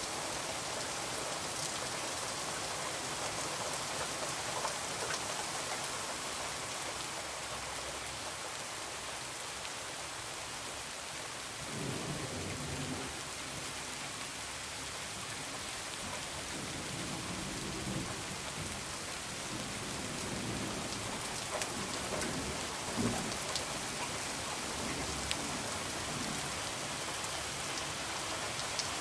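Steady heavy rain falling, with low rolls of thunder rumbling in from about halfway through.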